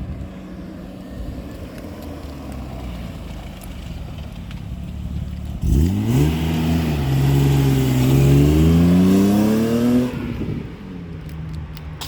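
BMW E36 320i's 2.0-litre inline-six engine idling, then revved about five and a half seconds in. The pitch jumps up, eases briefly, then climbs steadily for about three seconds before the throttle is released and it falls back to idle.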